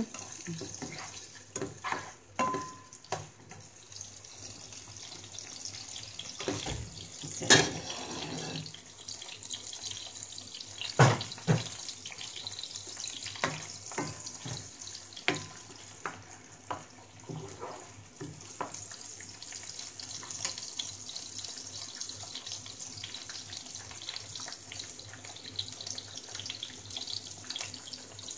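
Diced onions and tomatoes sizzling steadily in hot oil in a non-stick frying pan, with a scattering of sharp knocks from a spoon striking the pan as they are stirred, the loudest about 7 and 11 seconds in.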